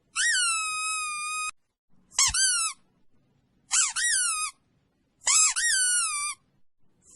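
A high-pitched squeaky call repeated about four times, each cry rising and then falling in pitch, some held level before cutting off, with short silent gaps between them.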